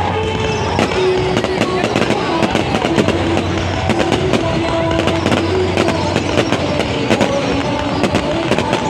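Aerial fireworks going off in a dense run of sharp bangs and crackles, with music playing underneath.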